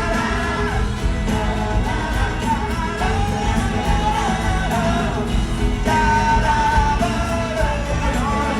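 Live pop-rock concert sound in a stadium: the band plays while long notes are sung, with shouts from the crowd.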